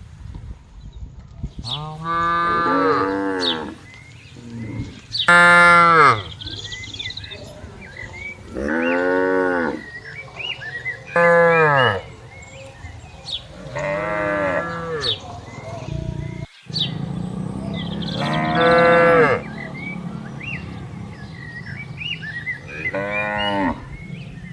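Cattle mooing: about seven loud, drawn-out moos, one every few seconds, each lasting roughly one to two seconds and rising then falling in pitch.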